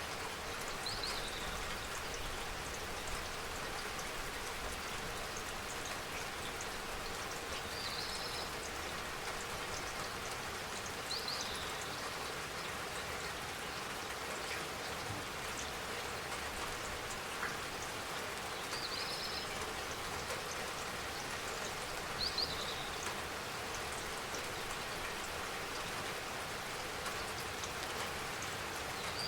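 Steady rain falling, an even patter of drops. Short high chirps sound every few seconds over it, six times in all.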